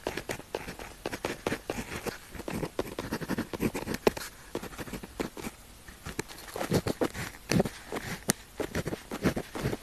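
Pen tip scratching across paper in quick, irregular writing strokes, with a sharper tick here and there and a brief pause about halfway.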